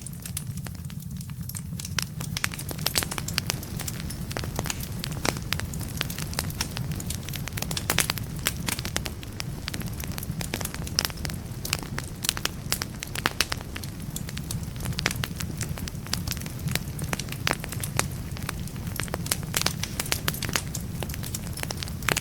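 Wood fire burning in a fireplace, with logs crackling and popping irregularly over a steady low rumble.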